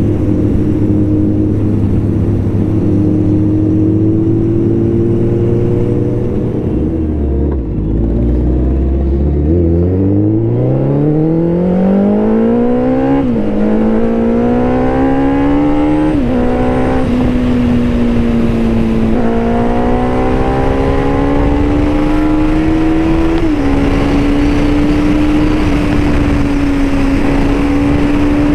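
Superbike engine running steadily, dropping to a low note about a quarter of the way in, then accelerating hard with its pitch climbing and two quick upshifts before it settles into a steady cruise.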